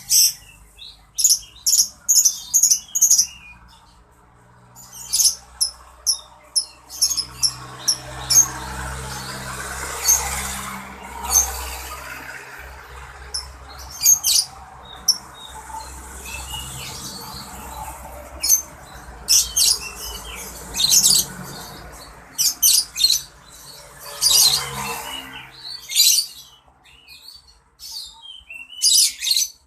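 A songbird singing: rapid clusters of sharp, very high chirps and trills in repeated bursts with short pauses between. A low background rumble runs under the song through the middle stretch.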